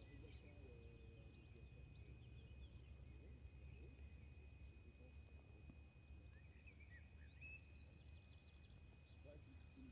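Near silence: faint outdoor ambience with a steady low rumble, a thin steady high-pitched tone, and scattered faint bird chirps, a few more around two-thirds of the way in.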